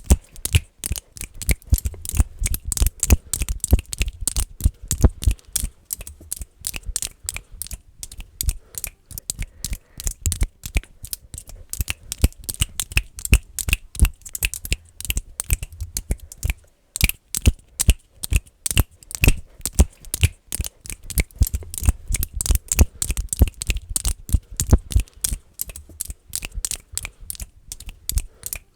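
Fast, aggressive ASMR finger clicking close to the microphone: rapid, uneven clicks several to the second, many with a low thud beneath, pausing briefly about seventeen seconds in.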